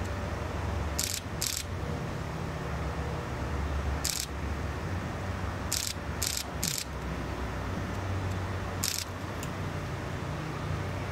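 Low steady rumble of a train approaching from a distance, with several short high-pitched hisses scattered through it.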